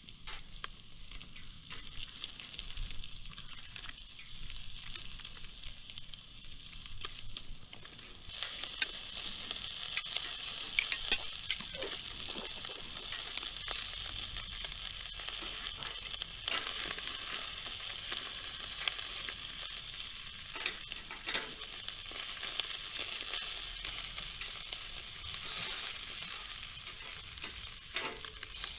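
Food frying and sizzling in a hot pan, with scattered pops and a few stirring or scraping sounds. The sizzle jumps louder about eight seconds in, as if more food hits the pan, then keeps going steadily.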